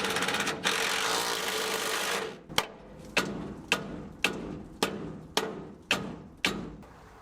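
A tool runs with a steady noise for about two seconds. Then come eight sharp, evenly spaced knocks, about two a second, each ringing briefly, like hand work on metal.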